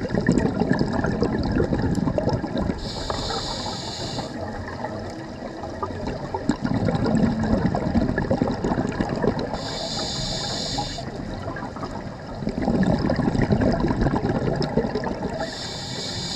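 A scuba diver breathing through a regulator underwater. Bubbling exhales alternate with short hissing inhales, three inhales about six seconds apart.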